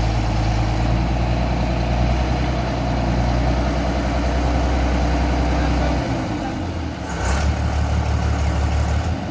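Heavy vehicle engine idling with a steady low drone. The drone changes about six seconds in, and a brief sharper noise comes just after seven seconds.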